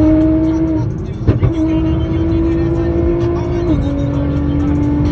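Sports car engine and exhaust pulling hard at speed, the drone climbing slowly in pitch. About a second in it briefly lets off with a short crack before pulling again, and near the end the pitch steps down as it shifts up a gear.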